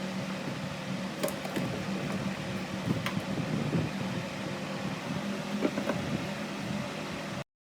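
A steady mechanical hum with a few light clicks and knocks over it, cut off abruptly near the end.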